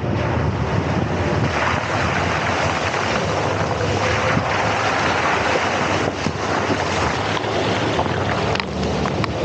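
Wind buffeting the microphone over the low, steady rumble of a vehicle on the move, with a few faint knocks.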